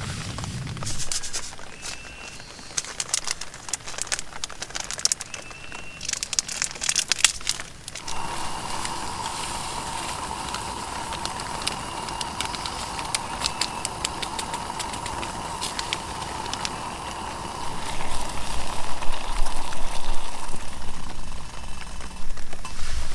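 Clicking, crackling handling noises for about eight seconds, then a camping stove's burner hissing steadily, heating water that comes to a boil soon after. Louder low rumbling from about three-quarters of the way through.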